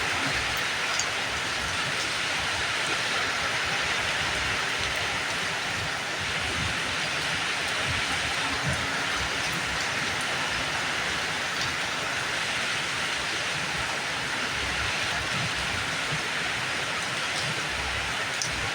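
Steady rainfall, an even hiss with a few single drops tapping now and then.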